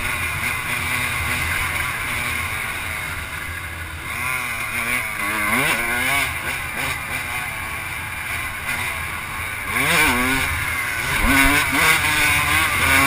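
An off-road vehicle's engine running hard around a motocross practice track, its pitch rising and falling again and again as it is throttled up and backed off through the course.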